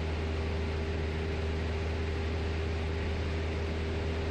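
Steady drone of a Cessna's piston engine and propeller in cruise, heard inside the cockpit as an even rumble with a faint steady tone over it.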